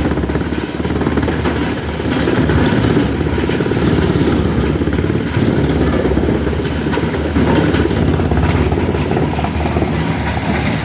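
Heavy diesel engine running steadily, a low, even rumble with no revving.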